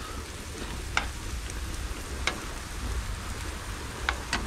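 Ham, onion and bell pepper sizzling as they fry on the grill, a steady hiss over a low rumble. A few sharp clicks break in, about a second in, a little past two seconds, and twice near the end.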